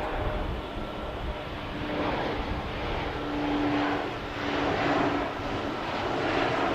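Jet airliner engine noise, swelling and easing several times, with a steady low hum through the middle.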